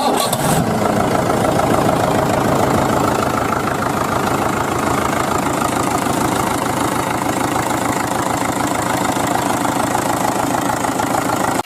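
An engine idling steadily with a fast, even pulsing, which cuts off suddenly at the end.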